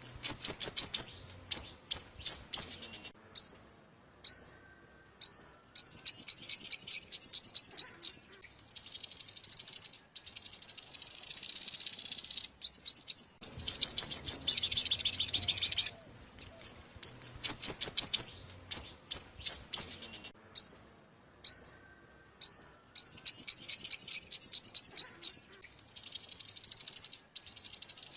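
Sunbird song of the bird sold in Vietnam as the 'five-coloured sunbird', played as a trapping lure: sharp, high chips in quick runs and fast trills. The same sequence repeats about every fourteen seconds, like a looped recording.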